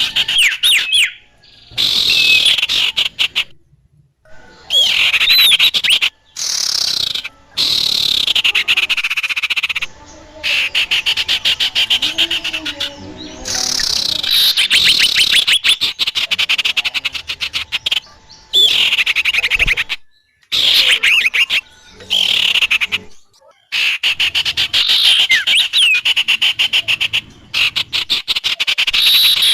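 Bird lure recording: rapid, high chattering bird calls in edited segments that start and stop abruptly, with short silent gaps between them.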